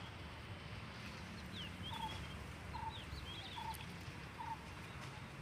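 Faint bird chirps over low background noise, with a short note repeated four times about a second apart.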